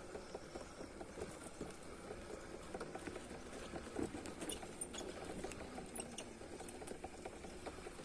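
Footsteps crunching and scuffing on a stony dirt path going downhill, a dense run of small crackles and ticks with a few sharper clicks about halfway through.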